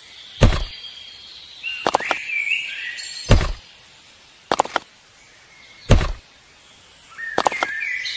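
A series of heavy thuds, one about every second and a half and a quick double near the middle, with faint high chirps between them.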